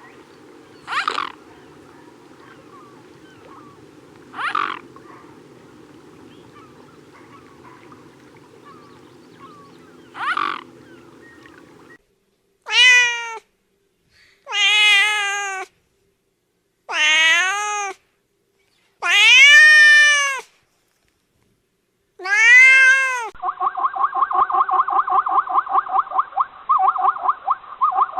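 Domestic cat meowing five times in loud, drawn-out meows that rise and fall in pitch. Before them come three short sharp squeaks over a low steady hum. After them, near the end, a rapid run of pulsed pitched calls from another clip begins.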